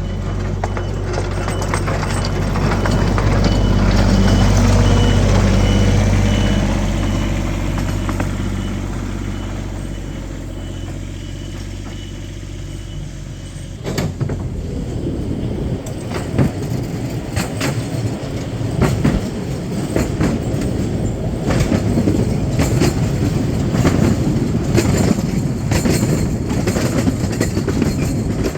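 Miniature railway train heard from aboard: a steady low engine hum for the first half, then from about halfway a fast, uneven clatter of the wheels on the track.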